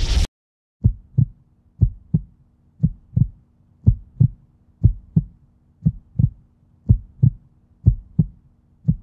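Heartbeat sound effect: pairs of low thumps, about one pair a second, after rock music cuts off about a quarter second in.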